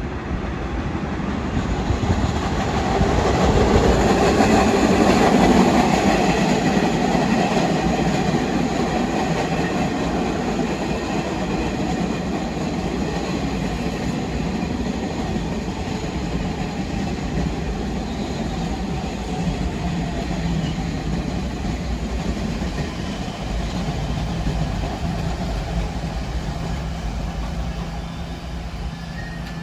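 New York City subway train running on the rails: a steady rumble of wheels and motors that builds to its loudest about five seconds in, then carries on steadily.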